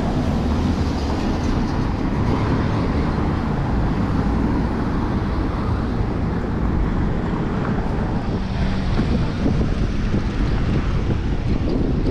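Steady wind rushing over the microphone of a camera riding along on a moving bicycle, with a low rumble of city vehicles underneath.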